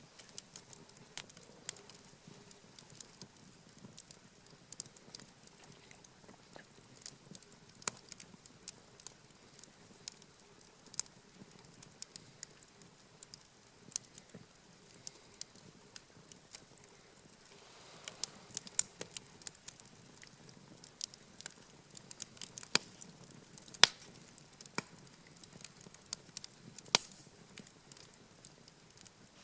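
Wood fire burning, crackling with irregular sharp pops. The pops come thicker in the second half, with a few louder cracks near the end.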